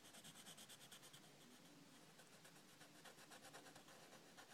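Faint, rapid back-and-forth scribbling of a drawing tool on paper as an area is coloured in, several strokes a second.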